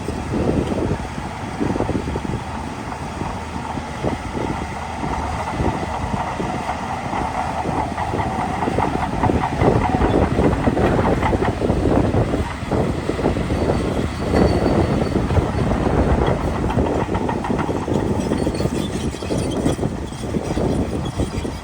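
Shantui DH17 C2 Pro bulldozer working, its engine running under load with a dense clatter of steel crawler tracks, a little louder in the second half.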